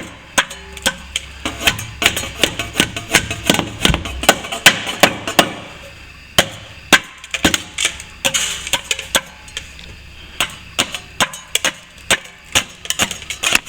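A hand tool knocking and scraping at plaster along a ceiling-to-wall crack, chipping off loose plaster. Irregular sharp knocks, two or three a second, with short pauses about six and ten seconds in.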